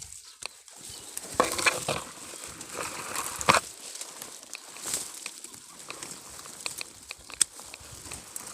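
Rustling and crackling of thorny brush being handled, with scattered sharp snaps of twigs, heaviest in two bursts in the first few seconds.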